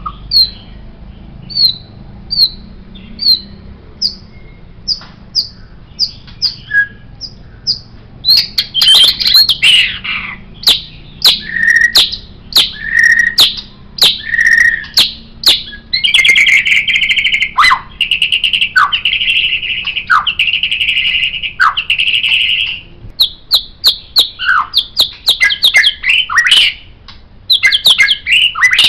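White-rumped shama (murai batu) singing. It opens with a string of short, high repeated notes. From about eight seconds in it turns louder and varied: sharp clicks, clear whistled notes, a buzzing rattle lasting several seconds, then rapid, quick-changing phrases near the end.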